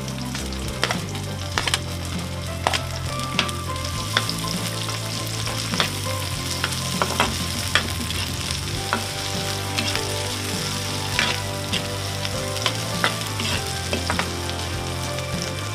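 Chopped red onions, ginger and garlic sizzling in hot oil in a wok, with a steady hiss. A metal spatula stirs them, clicking and scraping against the wok every second or so.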